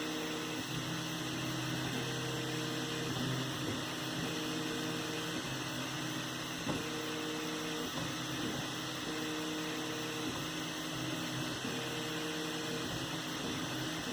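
3D printer running a print: its stepper motors whine in short steady tones that start and stop about every two seconds as the head moves back and forth, over a constant hum.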